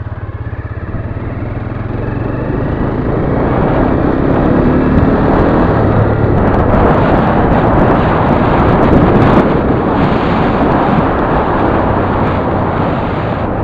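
Motorcycle engine pulling away from idle and speeding up over the first few seconds, then running loud and steady under heavy wind noise on the microphone as the bike rides on.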